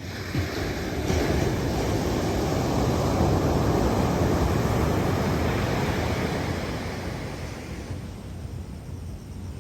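Surf breaking and washing on the beach, with wind buffeting the microphone; the rush swells about a second in and eases off near the end.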